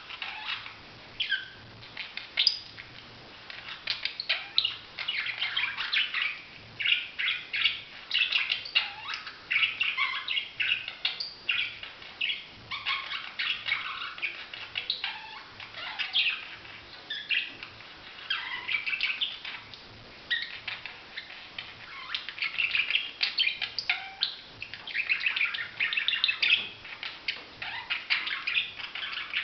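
Budgerigar chatter: a busy run of short chirps, squeaks and clicks in bursts separated by brief pauses.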